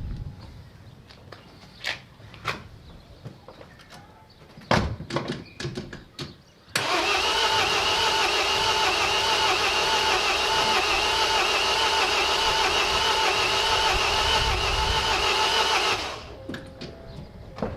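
A few scattered clicks and knocks, then the MINI R56's 1.6 HDi DV6 diesel engine is cranked on the starter for about nine seconds without catching, and the cranking cuts off abruptly. It is an engine that won't start after a rebuild.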